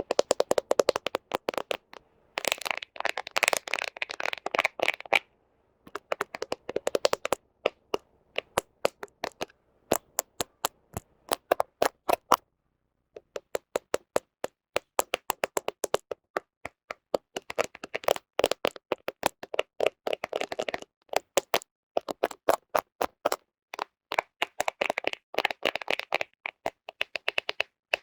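Fingernails tapping and scratching on a smartphone camera close to the microphone: quick dry clicks several times a second, in runs with brief pauses. Denser spells of scratching come a few seconds in, again around two-thirds through, and near the end.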